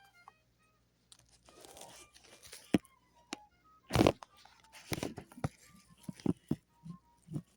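Handling noises: packaging crinkling and tearing, with several sharp knocks, the loudest about four seconds in.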